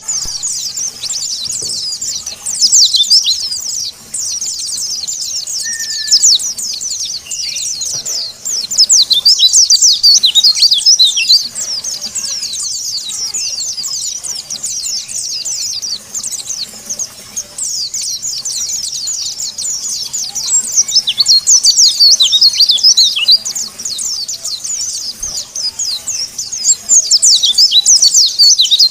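White-eye (pleci, Zosterops) song: a rapid, high-pitched chatter of quick chirps and trills. It swells several times into loud bursts of very fast twittering.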